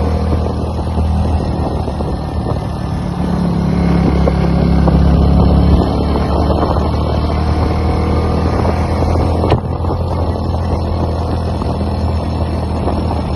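Motorcycle engine running while riding: a steady low drone that swells a little in the middle. A single sharp knock comes about two-thirds of the way through.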